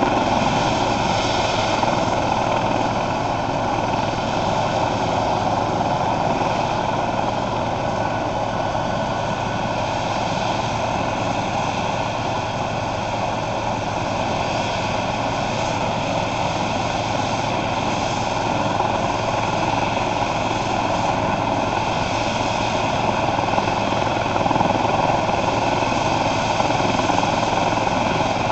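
Eurocopter EC135 twin-turbine police helicopter running steadily, with a whine from the turbines over the rotor noise.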